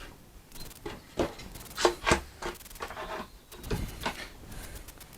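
Hand work on a wooden drawer-door panel: a few irregular knocks and short scraping rubs as the piece and tools are handled.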